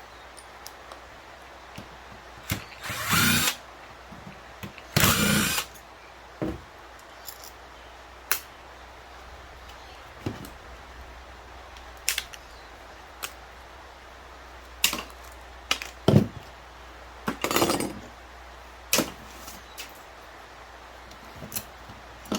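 Power drill run in three short bursts, each under a second, with clicks and knocks of metal parts being handled between them.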